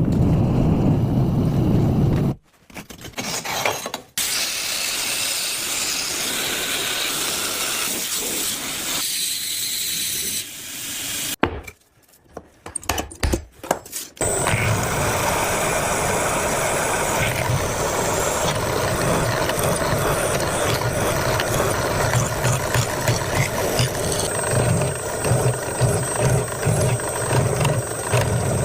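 Steel of an old rasp being ground and abraded as it is shaped into a knife: a steady, loud grinding-scraping noise in several long stretches broken by brief pauses, with a rhythmic low pulsing near the end.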